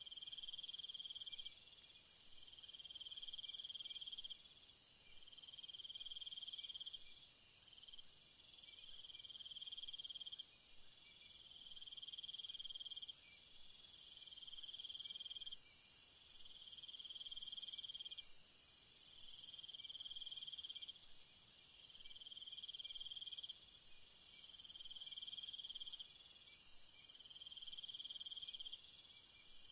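Night insects: crickets trilling in repeated pulses of about a second and a half, with a higher, steady insect buzz that comes in about halfway through, breaks off for a few seconds, then returns.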